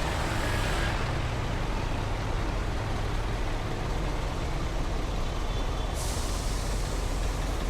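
Heavy rush-hour road traffic, engines of trucks and buses running with a steady deep rumble. About six seconds in a sharp hiss sets in, the air-brake release of a heavy vehicle.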